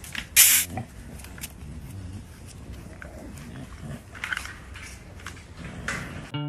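A cat making low wavering vocal sounds, with a short, loud, sharp noisy burst about half a second in and softer ones later.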